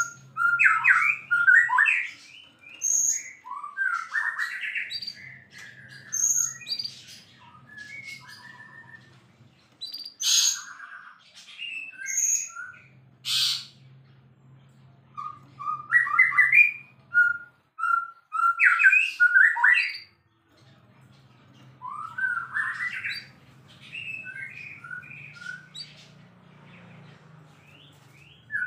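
White-rumped shama (murai batu) singing a varied song of rapid phrases: whistled glides, sharp high notes and harsh chattering notes, in bursts a second or two long with short pauses between.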